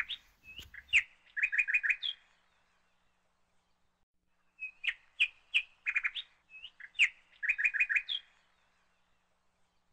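A small bird chirping in two bouts of short, high chirps, many in quick runs of four or five: the first just after the start, the second from about halfway to near the end.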